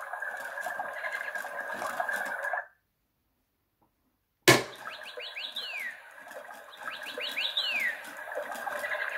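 Toy parrot's sound function chirping: two quick runs of short, falling chirps about a second apart, over a steady background noise. The sound drops out completely for nearly two seconds before it, ending in a sharp click.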